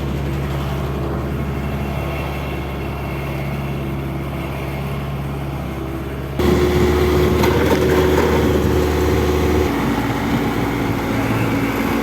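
Bobcat skid-steer loader's engine running steadily. A little past halfway it suddenly gets louder with a higher engine note, then settles to a lower note again about three-quarters of the way through.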